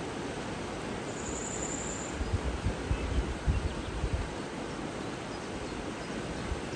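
Outdoor nature ambience: a steady hiss of background noise, with a brief high, steady buzz about a second in and uneven low rumbling gusts through the middle.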